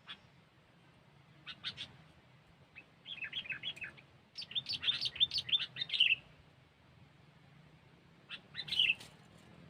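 Sooty-headed bulbul (kutilang) calling in quick bursts of bright chirped notes: a brief pair about one and a half seconds in, then a fast run of chirps that grows louder until about six seconds in, and another short burst near the end.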